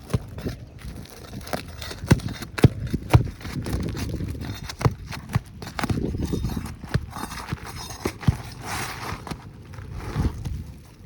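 Irregular knocks and clicks of hard objects being handled and set down, as in hands-on repair work, over a low background rumble.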